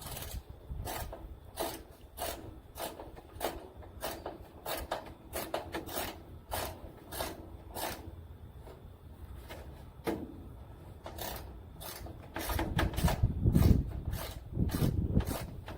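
Hand ratchet cranking a rain gutter hanger screw down into the wooden support: a regular series of short ratcheting strokes, about two or three a second. A louder low-pitched noise comes in near the end.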